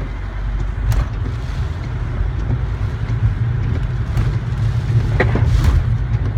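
Inside a moving car during a hurricane: a steady low rumble of engine and tyres under a broad hiss of wind and rain, with a few short knocks about a second in and again about five seconds in.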